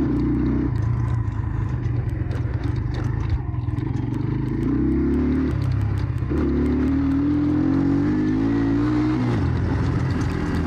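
Jawa 125 Dakar enduro motorcycle's engine running under way, its revs rising and falling several times, with light clattering over it.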